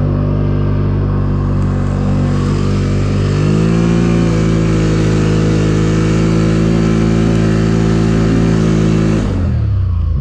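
ATV engine pulling hard up a snowy hill: it runs at steady high revs, climbs in pitch about three and a half seconds in and holds there, then the throttle is let off near the end and the revs fall away.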